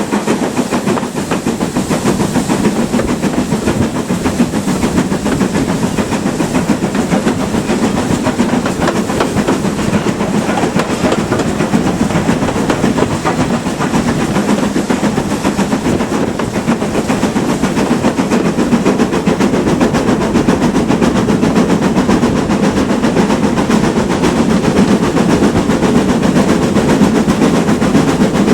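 GWR Manor-class steam locomotive working a train, its exhaust beats coming in a fast, steady run over the rail noise and hiss of steam, growing slightly louder near the end.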